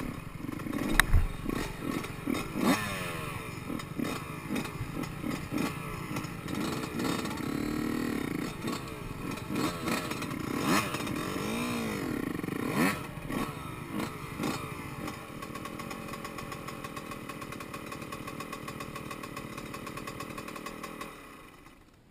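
Yamaha YZ125 two-stroke single-cylinder dirt bike engine, revved up and down repeatedly with a sharp knock about a second in. It settles to a steadier run about fifteen seconds in, then stops shortly before the end.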